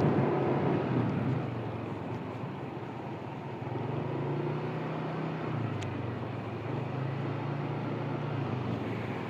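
Motor scooter engine running steadily while riding, a low hum that dips in pitch a little past halfway and then picks up again. It is heard through a phone headset mic with noise suppression, so wind noise is largely removed.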